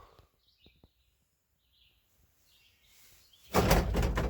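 Faint bird chirps and a couple of small clicks, then about three and a half seconds in a sudden loud rustling and scraping, like things being handled or shifted.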